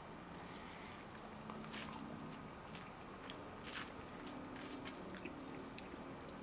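Faint biting and chewing of breaded chicken wings: a scattering of short, crisp crunches and mouth sounds.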